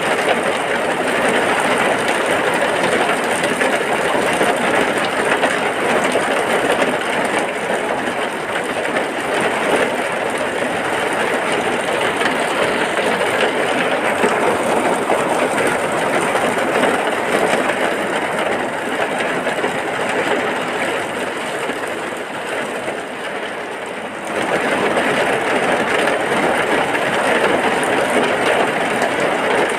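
Heavy rain falling in a steady, dense hiss. It eases slightly, then comes back to full strength suddenly about 24 seconds in.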